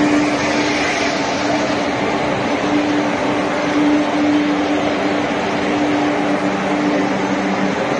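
Vande Bharat Express electric train set alongside a station platform: a steady rushing noise with a continuous mid-pitched hum, and a second, lower hum joining near the end.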